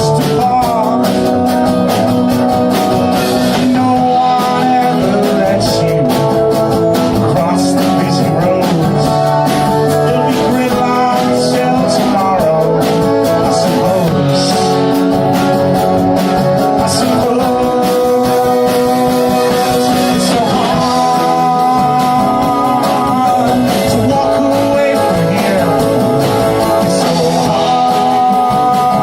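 Folk band playing live: plucked guitar with a sung vocal line over the band.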